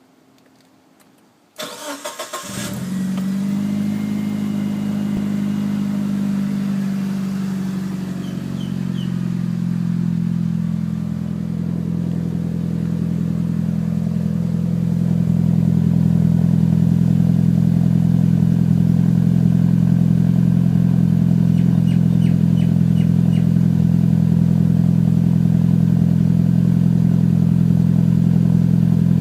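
Mitsubishi Lancer Evolution VII's turbocharged 2.0-litre four-cylinder, breathing through an Invidia cat-back exhaust, cold-started. The starter cranks briefly, the engine catches about two seconds in and settles into a steady cold idle that grows louder over the next dozen seconds.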